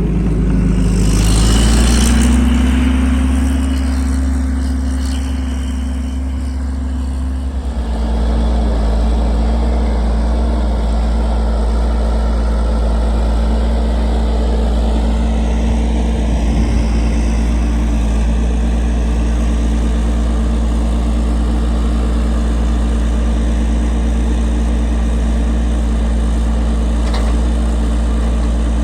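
Engine of farm machinery moving corn stalk bales, running steadily. It revs up in the first two seconds, holds, then changes pitch at about eight seconds and runs on at an even speed.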